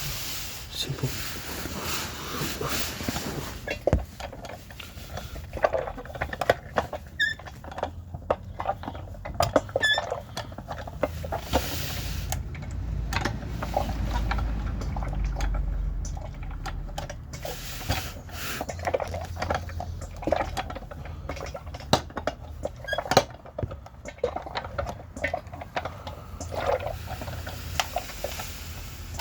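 Irregular clicks, knocks and clinks of tools and parts being handled during a DSG gearbox oil change, with a steadier low rumble for a few seconds midway.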